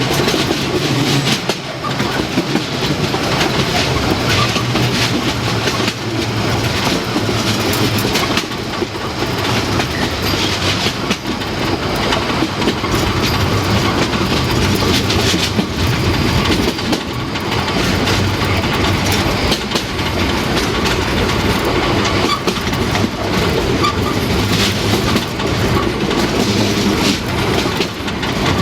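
Harz narrow-gauge steam train running along the line, its wheels clicking steadily over the rail joints.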